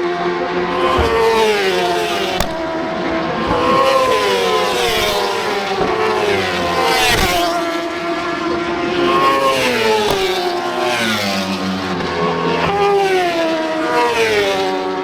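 Superbike racing motorcycle engines revving hard on track, several at once, their pitch climbing and dropping again and again through gear changes.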